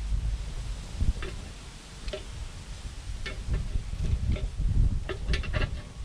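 Wood campfire crackling, with sharp irregular pops and snaps about a second apart that come faster near the end, over a low rumble.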